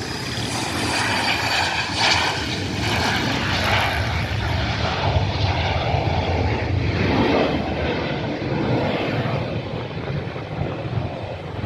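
Cessna Citation CJ3 business jet taking off, its twin turbofans at takeoff power. A steady jet roar builds over the first couple of seconds and eases slightly near the end, with a high whine falling slightly in pitch at the start.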